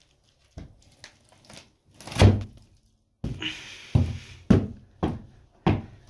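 A plywood floor panel being laid and knocked into place: a series of dull wooden thuds and knocks, the loudest about two seconds in, with several more in the second half.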